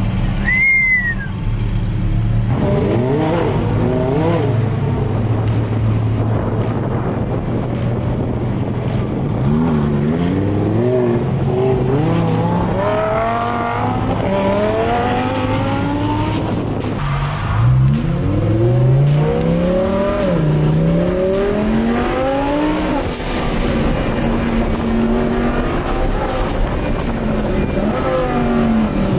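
Twin-turbo Lamborghini Huracán's V10 accelerating hard through the gears: the engine note climbs and drops back with each shift, in several pulls over a steady drone. A brief high whistle about a second in.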